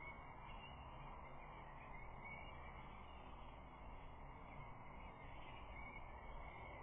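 Faint, steady outdoor background noise with faint distant birdsong, wavering chirps that come and go.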